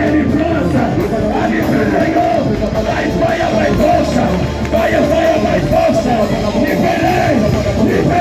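Loud worship music: voices singing over a band's instruments, running continuously.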